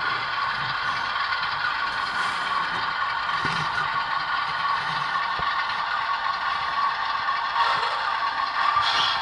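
ESU LokSound decoder in a model ES44AC locomotive playing a GE Evolution Series diesel engine sound through its small speaker, running steadily, with a light mechanical rattle from the model.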